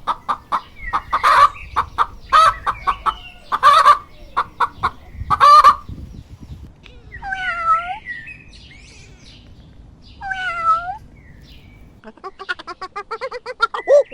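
Chickens clucking and squawking in quick, sharp calls, followed by two separate drawn-out meows from a cat. Near the end comes a fast run of short, high chirps.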